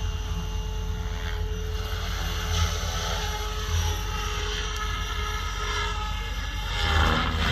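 SAB Goblin 3-blade electric RC helicopter in flight: a steady motor and rotor whine that sags slightly in pitch, over low rumbling noise. It grows louder about seven seconds in.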